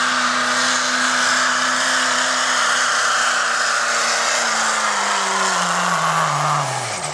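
Diesel pickup truck in a sled pull, its engine held at high revs under full load with a loud rushing noise. About five seconds in the engine note falls steadily as the revs drop.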